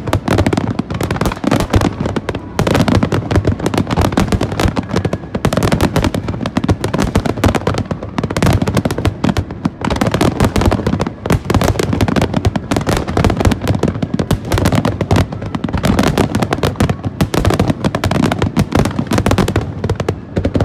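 Fireworks going off in a dense, unbroken barrage of bangs and crackling, many reports a second.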